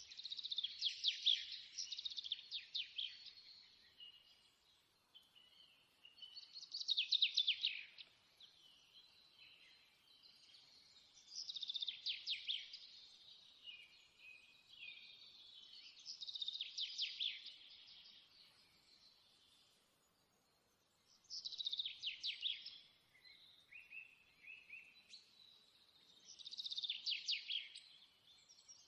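A songbird singing: six trilled phrases, each a second or two long, about every five seconds.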